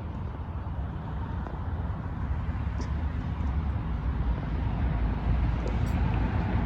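Steady outdoor road traffic noise: an even, low rumble with no single vehicle standing out.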